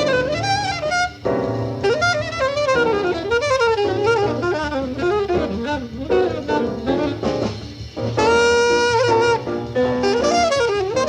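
Bebop jazz recording: a fast, winding horn solo line over bass and drums, with one held note about eight seconds in.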